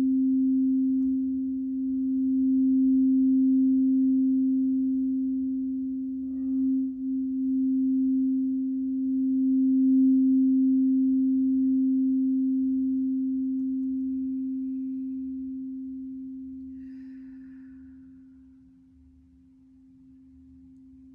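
Crystal singing bowl sounding one steady, pure low tone that swells and is held for about twelve seconds, then slowly dies away to a faint ring.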